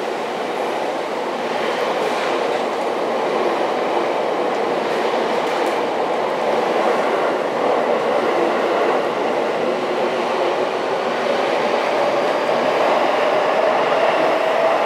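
Sotetsu 11000 series ten-car electric train passing through a station platform without stopping: steady rolling noise of steel wheels on rail, with a faint tone that rises slightly near the end.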